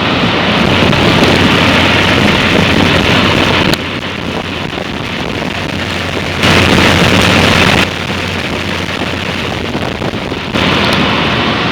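1970s Carrier Challenger 38GS 3.5-ton central air-conditioner condensing unit running: a steady whoosh of the condenser fan with a low compressor hum. The level steps down and up suddenly several times.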